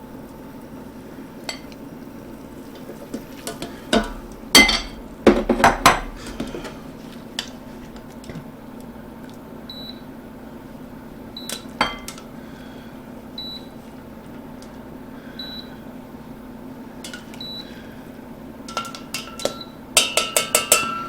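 Metal utensils clanking and clinking against a pan and dish as poached chicken pieces are lifted out: a burst of clanks about four to six seconds in, a single knock midway, and a quick run of clinks near the end, over a steady low hum.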